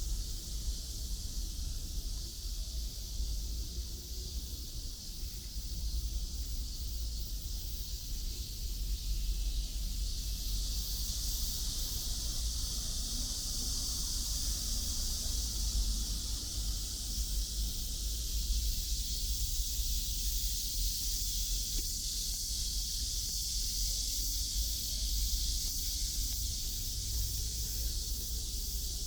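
Outdoor ambience: a steady high-pitched hiss that grows louder about ten seconds in, over a constant low rumble.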